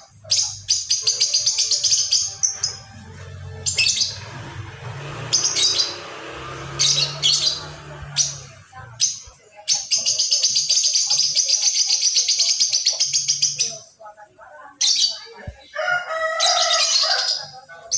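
Lovebird ngekek: long runs of rapid, high-pitched chattering trills, the longest lasting about four seconds, with shorter runs before and after.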